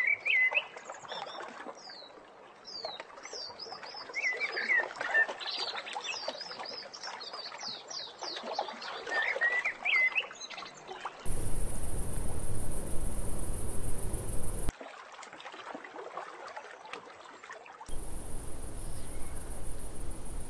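Several small birds chirping and singing, quick rising and falling notes, for about the first ten seconds. Then a loud, steady rushing noise cuts in twice for a few seconds each, with a quieter stretch between.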